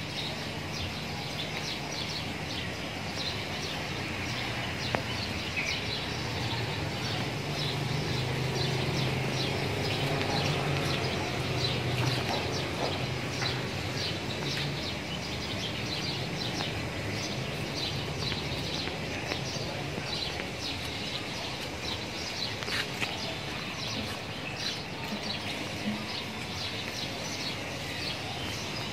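Birds chirping in quick, repeated short notes, over a steady low background rumble that swells for a few seconds in the middle.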